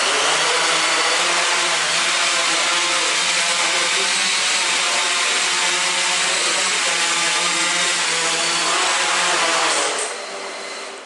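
AscTec Pelican quadcopter's four electric motors and propellers running steadily in a loud whir with several held pitches, falling away about ten seconds in as the rotors slow.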